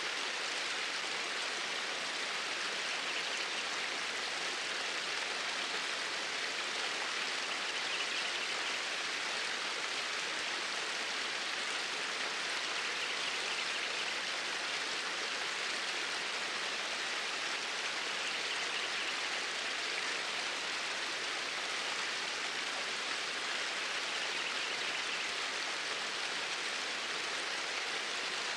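Steady flowing water of a stream, an even rushing hiss with no breaks.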